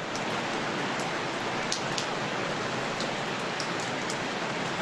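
Recorded rain: a steady hiss of rainfall with scattered sharp ticks of single drops.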